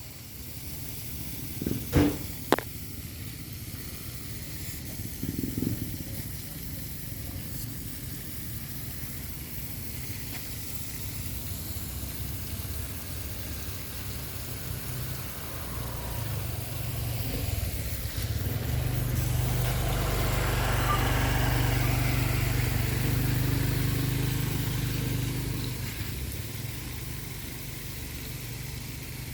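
Steady hiss of water spraying from a leaking pipe, with a couple of sharp knocks about two seconds in. In the second half a low humming drone swells up, holds for several seconds, then fades.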